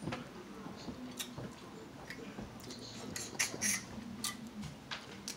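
Close-up eating sounds of a man chewing crab meat: irregular wet clicks and lip smacks, with a short cluster of louder smacks about three and a half seconds in.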